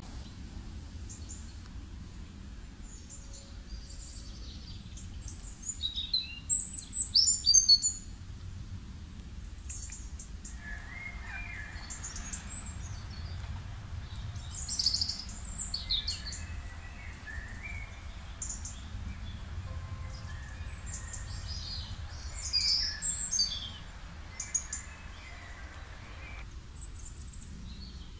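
Several birds singing and chirping in quick high trills, loudest in a few clusters, over a low steady rumble.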